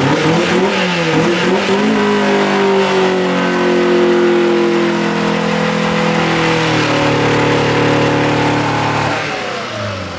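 Honda Civic wagon's engine revving hard during a front-wheel burnout. The revs rise and fall for the first couple of seconds, are held steady and high for about seven seconds, then drop near the end.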